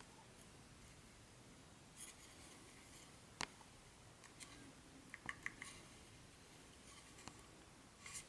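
Quiet handling sounds of unboxing: brief rustles of packaging and sparse small clicks and taps, the sharpest one about three and a half seconds in and a quick cluster of light ticks a little past halfway.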